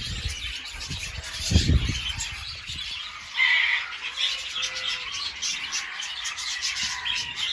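A flock of budgerigars chattering and squawking, with one louder squawk about three and a half seconds in. A dull thump about one and a half seconds in.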